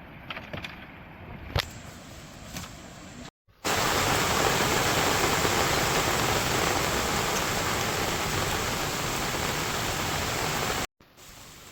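Heavy rain falling, a steady loud hiss that starts abruptly about three and a half seconds in and cuts off abruptly near the end. Before it, a quieter stretch with a few light knocks.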